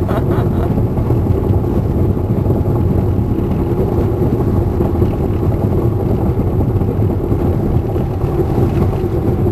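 Steady road and engine noise heard inside a moving car's cabin, with tyres rolling over snow- and ice-covered streets.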